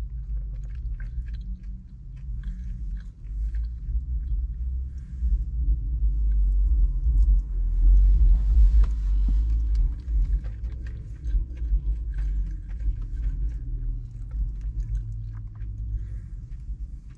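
A person chewing mouthfuls of orange chicken and rice close to the microphone, with short clicks of a fork in a plastic bowl. Under it runs a steady low rumble that swells about halfway through.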